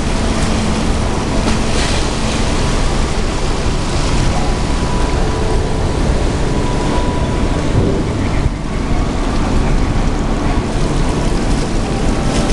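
Steady wind rushing over the microphone on a moving cruise ship's deck, with the wash of the sea beneath, a loud even rush with a heavy low rumble.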